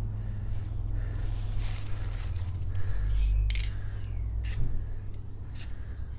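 Aerosol spray paint can sprayed in about five short hissing bursts, laying a coat of black paint on a motorcycle clutch case, over a steady low rumble.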